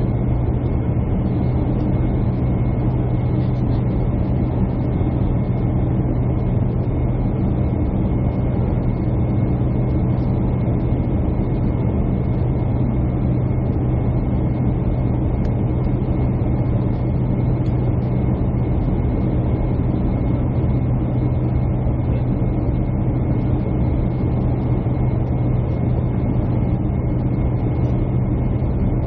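Steady drone inside a jet airliner's cabin: the engines and airflow make a constant low hum with an even rushing noise over it, unchanged throughout.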